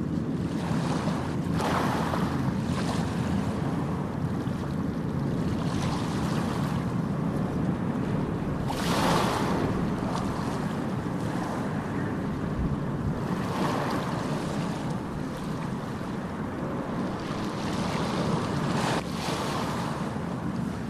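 Ocean surf: a steady low rumble with waves breaking and washing in every few seconds, the loudest about nine seconds in.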